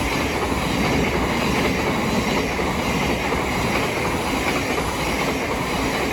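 Thameslink Class 700 electric multiple unit passing through the station: a loud, steady rush of wheels on the rails.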